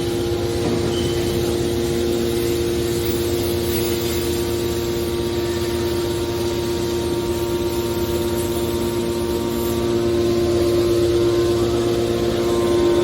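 Hydraulic aluminum scrap baler running: a steady hum from its motor and hydraulic pump, a little louder about ten seconds in.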